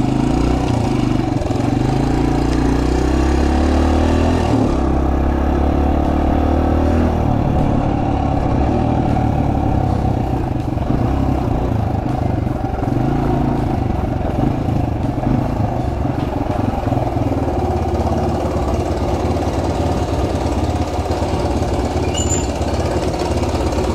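Suzuki DR-Z125L's small single-cylinder four-stroke engine running. Its pitch rises over the first few seconds, shifts abruptly about five seconds in, then holds steady.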